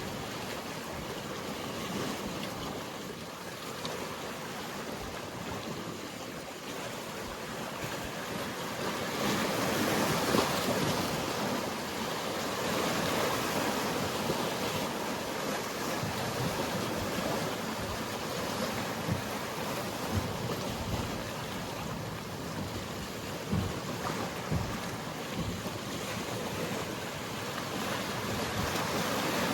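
Sea waves washing and breaking along the shore, a steady rush that swells about a third of the way in. Wind buffets the microphone with short low thumps.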